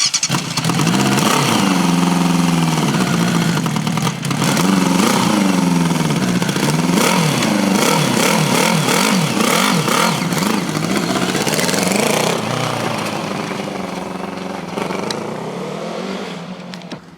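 Yamaha motorcycle engine revving up and down again and again, then running steadier and fading away near the end.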